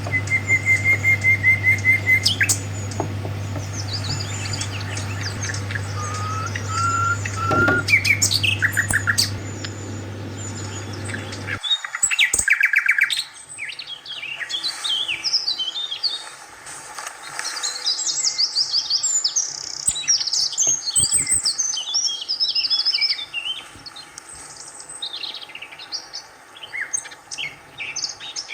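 Birds chirping and calling, with many short high whistles and chirps overlapping and growing busier in the second half. A steady low hum underneath stops suddenly about twelve seconds in.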